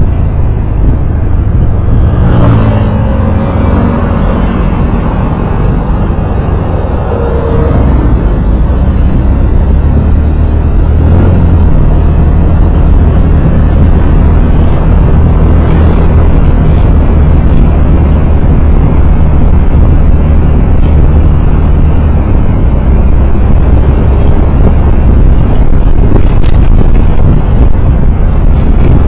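Loud, steady road and engine noise recorded from a moving road vehicle, dominated by a deep low rumble, with a brief rising engine note about two to four seconds in.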